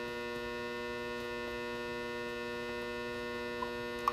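Steady electrical mains hum, with two small clicks near the end.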